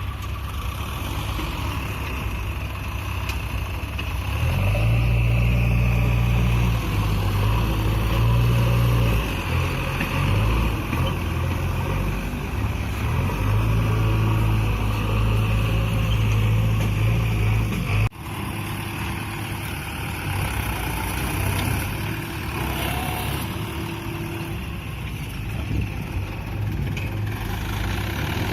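Mahindra 585 DI tractor's diesel engine running under heavy load in mud. It gets louder and heavier from about four seconds in, then cuts off abruptly about two-thirds of the way through, after which the engine runs more quietly.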